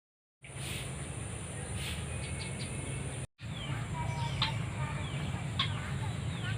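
Birds calling in short, repeated falling chirps, clearer in the second half, over a steady background hum.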